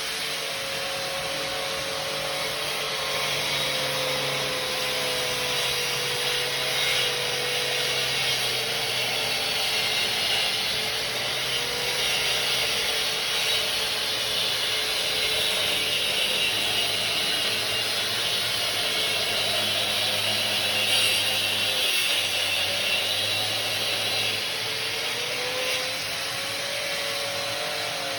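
A power tool grinding into a plaster and foam-block wall while a Metabo vacuum extractor runs. A steady motor whine dips slightly early on and rises again near the end.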